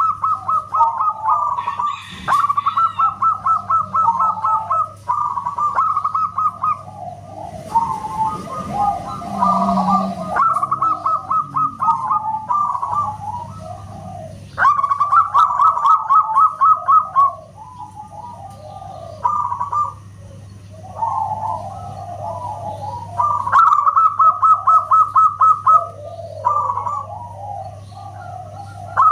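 Zebra doves (perkutut) cooing: repeated phrases of quick staccato notes alternating with lower rolling coos, several birds' phrases overlapping.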